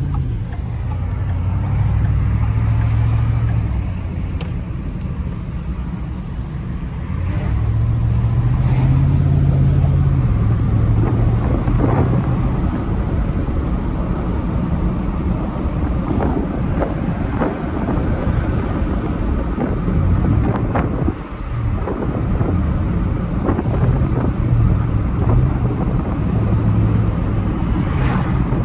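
Truck engine running, its pitch rising and falling several times as the revs go up and down, with a few sharp clicks in between.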